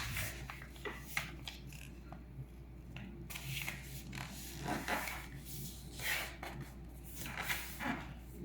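Sheet of paper being folded and creased by hand: short, scattered rustles and crinkles as the paper is bent and pressed flat.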